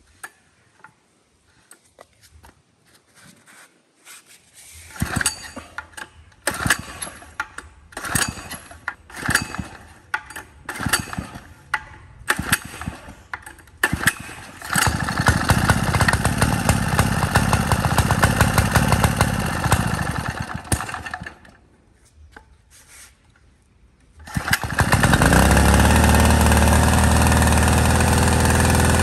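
Small diesel water-pump engine being started. It turns over in uneven bursts for several seconds, runs steadily for about seven seconds and stops. About 25 seconds in it starts again and settles into a steady run.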